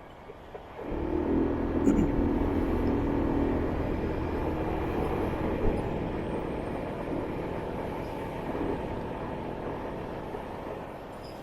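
A loud vehicle engine comes up suddenly about a second in, with a steady low hum, then slowly fades away as it passes.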